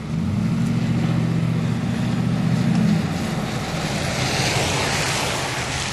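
Vehicle engine running with a steady low hum for about three seconds, then a rushing hiss of wind rises and takes over for the rest.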